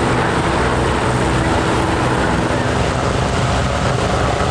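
Aircraft in flight: loud, steady engine noise with a low droning hum underneath.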